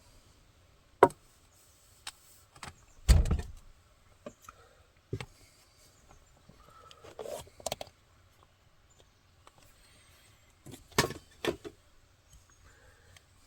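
A series of separate knocks, clicks and thuds, as of objects being handled and set down, with a heavier thump about three seconds in and a quick cluster of knocks near the end.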